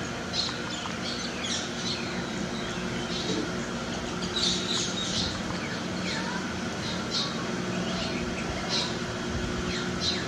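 Small birds chirping in short, scattered notes, some falling in pitch, over a steady low hum.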